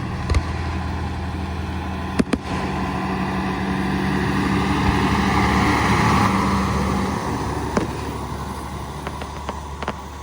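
A motor vehicle engine running steadily with a low hum, while road noise swells to a peak about six seconds in and then fades as a vehicle drives past. A few sharp clicks are scattered through it.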